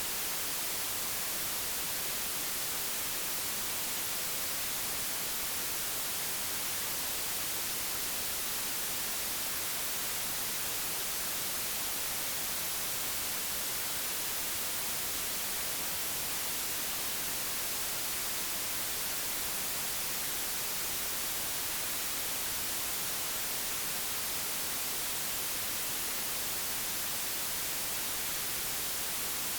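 Digitally generated white noise: a steady, even hiss that does not change, with its energy weighted toward the high end.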